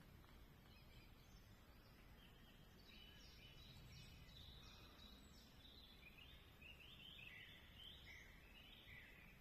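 Faint birdsong: quick runs of short high notes starting about two and a half seconds in, over quiet background hiss.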